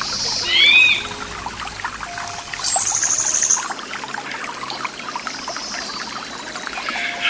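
Stream water trickling and babbling steadily, with birds calling over it: a pair of short curving chirps under a second in, and a fast high trill about three seconds in.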